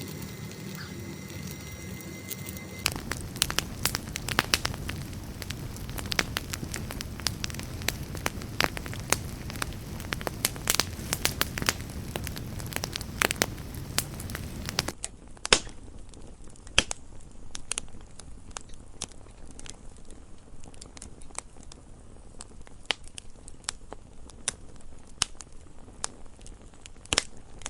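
Campfire burning, with dense crackling and sharp pops over a low rushing bed. About halfway through the sound becomes duller and quieter, with sparser pops. A few seconds of steady-toned sound precede the crackling at the start.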